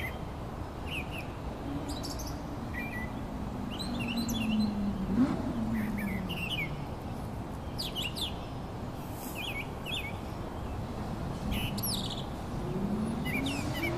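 Small birds chirping, short quick calls scattered throughout, over a steady low outdoor hum. A low droning tone, like a passing engine, rises and then falls in pitch between about two and seven seconds in, and another starts rising near the end.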